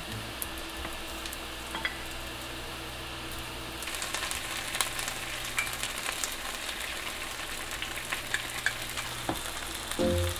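Meat-coated rice balls sizzling in oil in a frying pan, a steady hiss with small crackles that grows busier about four seconds in.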